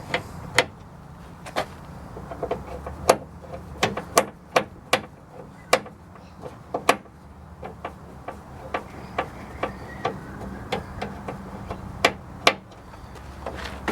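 Socket wrench tightening the bolts that clamp the window glass to a manual window regulator inside a car door: sharp clicks and knocks at irregular intervals, with a run of fainter, quicker ticks in the second half.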